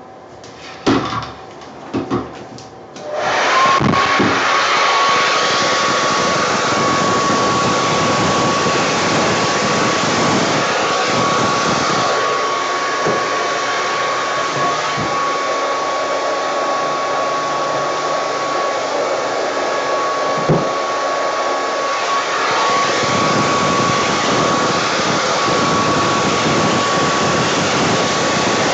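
A hair dryer switched on about three seconds in after a couple of clicks, then running steadily with a whine over the rushing air as it blows wet acrylic pour paint across the canvas in a Dutch pour.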